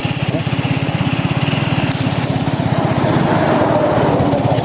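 Aprilia Tuono 125's single-cylinder four-stroke engine running steadily, with a fast, even exhaust pulse.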